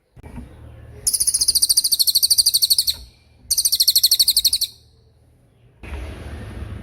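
Cililin songbird singing two very high, rapid pulsed trills, the fast 'tembakan' phrase. The first lasts about two seconds, and the second, about a second long, follows after a short pause. Background hiss and a low hum rise near the end.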